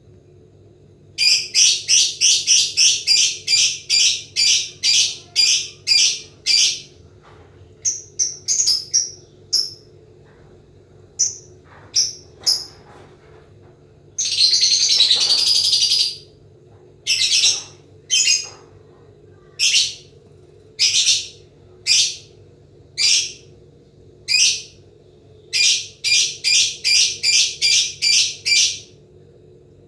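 Lovebird calling in its 'ngekek' chatter: runs of loud, shrill chirps about three a second, broken by pauses and single calls, with one unbroken trill of about two seconds near the middle.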